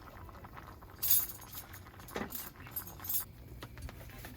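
Light clinking and rattling of small hard objects being handled, loudest about a second in, with scattered ticks after it.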